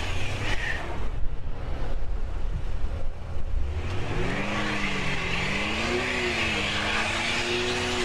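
Chevrolet Impala's engine revving with wheelspin as its front tyre spins in snow without grip: the car is stuck. A low rumble and hiss run throughout, and from about four seconds in the engine note wavers up and down.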